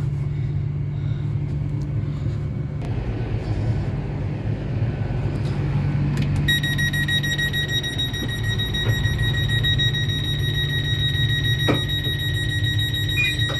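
Steady low hum of a Great Western Railway Class 802 train standing with its systems running. About six seconds in, a high-pitched electronic warning tone starts, pulsing rapidly, and holds until just before the end, with a single knock about two seconds before it stops.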